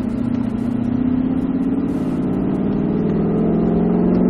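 Ford Mustang GT's V8 engine pulling away in a low gear under light throttle, its pitch and loudness rising steadily as the car gathers speed.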